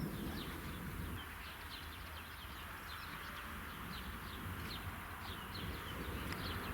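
Small birds chirping outdoors, a stream of short, high, falling notes several a second, over a low rumble of distant thunder that dies away about a second in.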